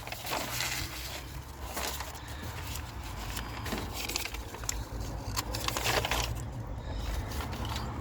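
Irregular clicks and rustles of things being handled, over a steady low hum.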